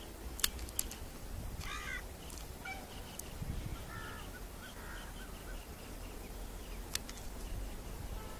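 Bird calls over a low rumble: one harsh call about two seconds in, then a few softer chirps. A faint, regular high ticking runs beneath them, with sharp clicks near the start and again near the end.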